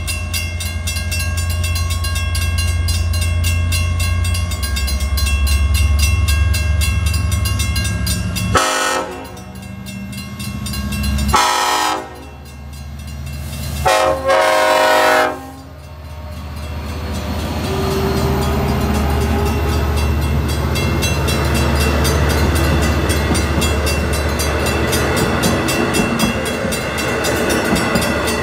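Long Island Rail Road diesel locomotive hauling bi-level coaches, departing through a grade crossing: its engine rumbles under steady crossing bells, and it sounds its horn twice, about nine and fourteen seconds in. It then pulls away harder and the coaches roll past.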